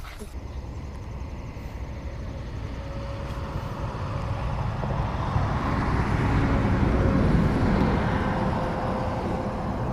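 A passing engine, growing louder to its peak about seven seconds in and then fading, with a faint steady hum under its noise.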